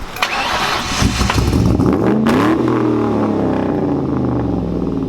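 Ford 4.6 V8 of a New Edge Mustang revved: after a rough first couple of seconds its pitch climbs about two seconds in, then falls back and settles into a fast idle. The engine is overheating and smoking, which the owners suspect is a blown head gasket.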